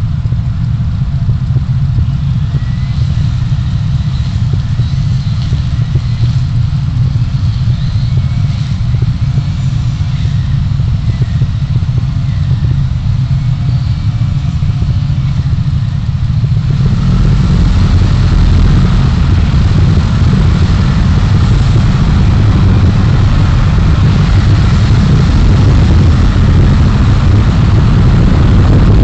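Car driving in city traffic, recorded by its dashcam: a steady low rumble of road and engine noise. About two-thirds of the way through it grows louder and fuller and stays there.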